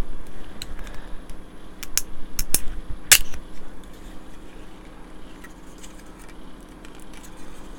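Glued plastic model-kit parts snapping and clicking as old 1990s glue joints are prised apart by hand: a handful of sharp cracks in the first three seconds, the loudest about three seconds in, then only faint small ticks.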